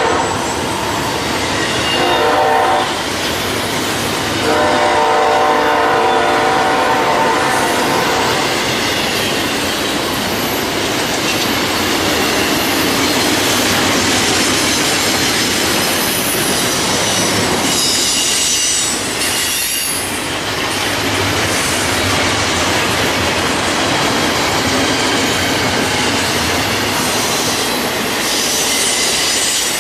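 Diesel freight locomotive horn sounding a short blast followed by a long one lasting about four seconds, then the freight train rolling past with steady wheel and rail noise, clacking and some wheel squeal.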